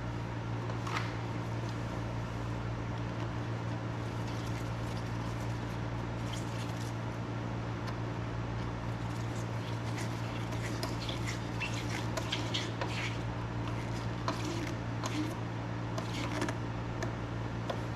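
Steady low background hum with scattered faint clicks and rustles of hands working a rubber fuel hose back onto a new petcock's fitting.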